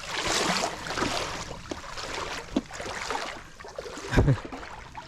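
Footsteps wading through shallow creek water, with irregular splashing and sloshing, and a low thump about four seconds in.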